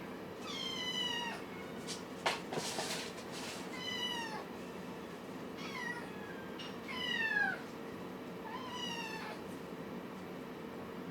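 A kitten mewing about five times, each high, thin mew falling in pitch, with a short click and a brief rustle between the second and third calls.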